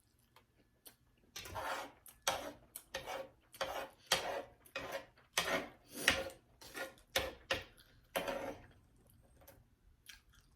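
Close-miked chewing of food: a regular run of short, crisp chewing sounds, about two a second, that stops about a second before the end.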